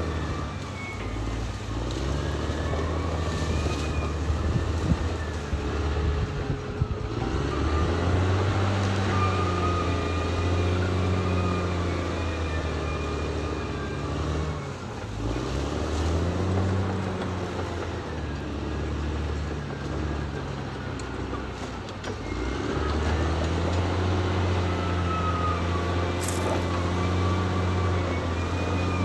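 Caterpillar D6R XL bulldozer's diesel engine running steadily while it works. Its pitch sags and picks up again three times.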